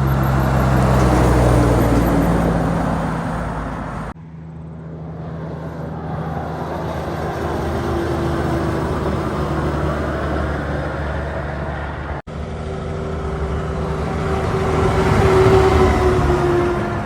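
Heavy lorries driving past, their diesel engines running, each pass swelling and fading. There are three passes, split by sudden cuts about four seconds and about twelve seconds in.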